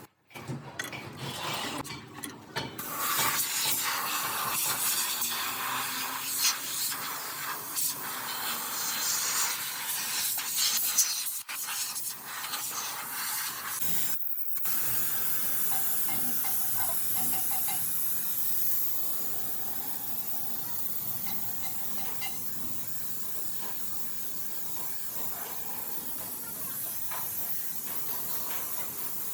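A spray hissing steadily, louder at first and softer in the second half, with a brief break about halfway through.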